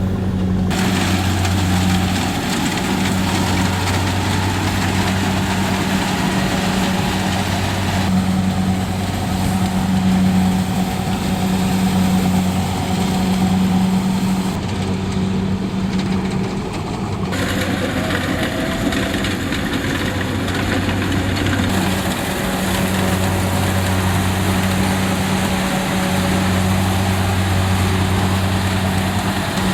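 Rice combine harvester's engine running steadily under load, a constant low hum with mechanical noise over it. The sound shifts abruptly a few times.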